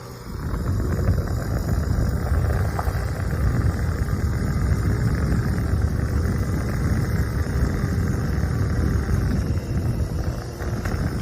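Steady rush of hot exhaust air blowing out of a freshly cleaned dryer vent across the microphone, held in the airflow while it is measured; the strong flow shows the cleaned vent is breathing better.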